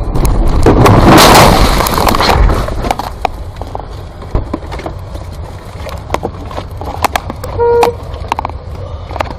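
A car collision: a loud crash of impact noise about half a second in that dies away over about two seconds, followed by scattered clicks and knocks. A short car horn honk near the end.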